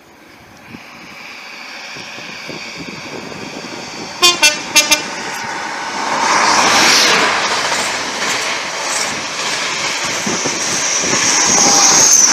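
Class 43 InterCity 125 (HST) diesel train approaching at speed and growing steadily louder. Its horn gives four short toots in two pairs about four seconds in, and a high whine rises as the power car passes beneath near the end.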